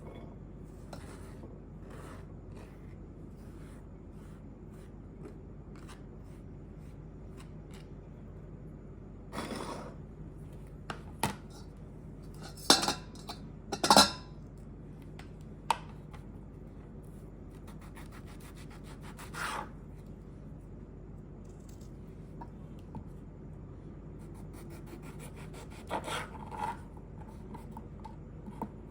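Food-preparation handling sounds: intermittent scraping and rubbing, with two sharp loud knocks of a utensil or dish about halfway through.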